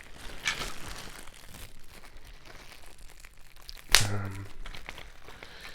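Packaging rustling and crinkling as it is handled, with one sharp knock about four seconds in that rings briefly.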